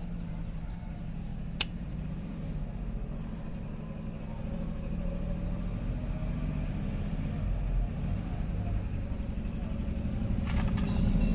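Scooter engine running steadily, picking up slightly from about four seconds in, with a single sharp click early and a quick metallic rattling near the end.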